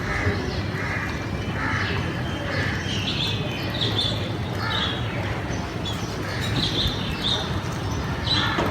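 Birds calling, short high calls repeating one or two a second over steady background noise.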